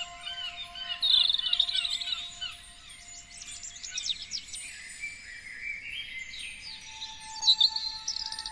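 Several songbirds singing at once, a mix of repeated chirps, quick downward-sweeping whistles and rapid high trills. The loudest is a fast trill about a second in, with another near the end.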